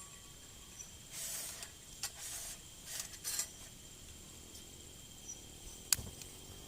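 Faint, steady insect chirring in the forest, broken by a few soft rustles in the first half and one sharp click about six seconds in.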